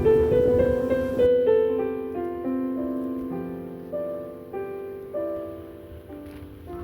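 Piano music: a slow line of held notes that gradually fades.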